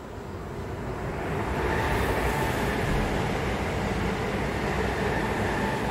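Double-deck electric regional train (Trenitalia Rock EMU) passing close by. Its rumble and wheel noise swell about a second in and stay loud, with a faint steady whine on top.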